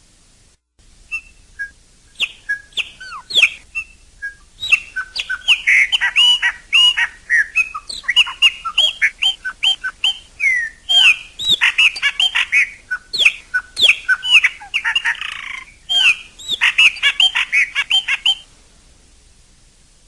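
Chopi blackbird (pássaro-preto) singing: a few scattered chirps, then a long, dense run of quick whistled notes and chirps with a brief harsh rasp near the end, over a faint steady hiss. The song stops a couple of seconds before the end.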